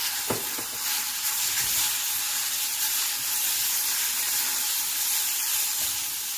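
Chopped tomatoes sizzling in hot oil with fried onions and spice masala in a kadhai as they are mixed in. There is a steady frying hiss, with one light knock just after the start.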